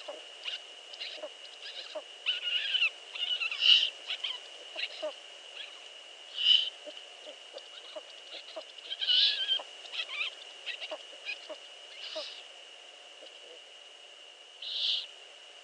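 Eurasian eagle owls at the nest giving short, hoarse hissing calls, about eight of them at irregular intervals, among small scratching clicks of movement in the nest. A faint steady high-pitched whine runs underneath.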